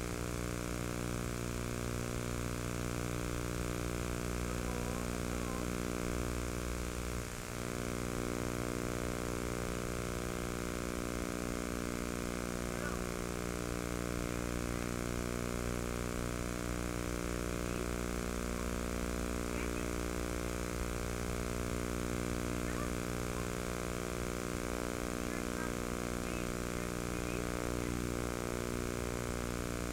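A steady, unchanging mechanical hum or drone with many evenly spaced overtones, dipping briefly about seven seconds in.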